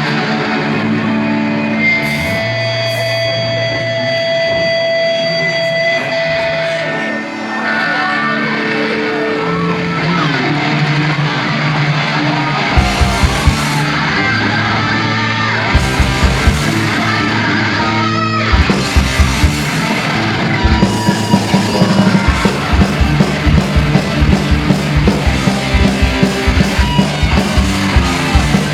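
Live punk rock band playing loud with distorted electric guitar. The first part is held guitar notes, then drums come in with scattered heavy hits about halfway through, and near the end the full band locks into a fast, steady beat.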